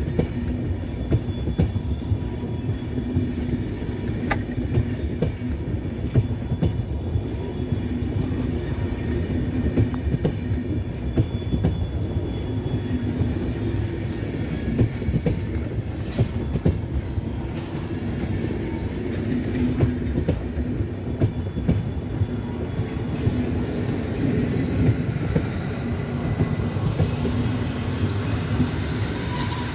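Electric-hauled passenger train coaches rolling slowly through the station. There is a steady rumble and hum, with wheel clicks over the rail joints about once a second.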